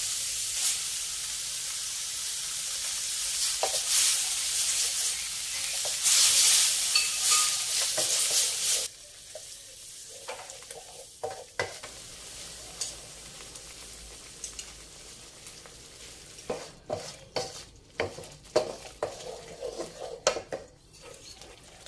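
Red curry paste sizzling in lard in a wok as coconut cream is dripped in and stirred with a wooden spatula. About nine seconds in the sizzle drops abruptly to a quieter fry, and near the end the spatula scrapes and knocks against the wok several times.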